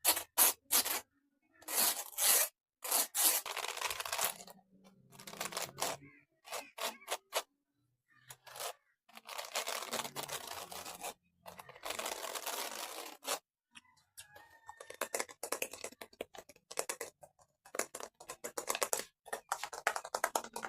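Close-miked ASMR trigger sounds: bursts of scraping and rustling from fingers working an object, broken by short pauses. Runs of fast clicking come in the second half.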